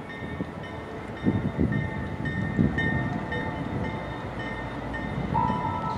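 Norfolk Southern freight train's diesel locomotives rumbling as the train rolls slowly closer, with irregular wheel knocks and clatter and a thin steady high tone above. A ringing, bell-like tone joins near the end.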